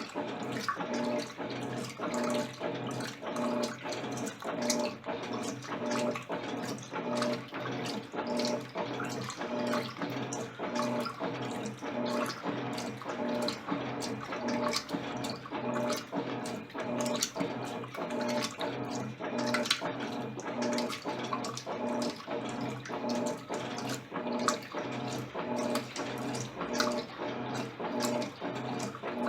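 Electrolux LTC10 top-loading washing machine agitating a load of jeans in water on its jeans programme: water sloshing and splashing, with the motor hum pulsing in an even rhythm a little more than once a second.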